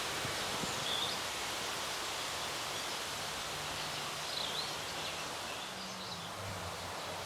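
Outdoor ambience: a steady rustle of wind in the leaves, with a few short, faint bird chirps.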